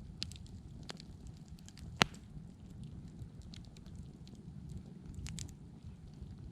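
Fire crackling: scattered small pops and snaps, with one loud sharp pop about two seconds in, over a steady low rumble.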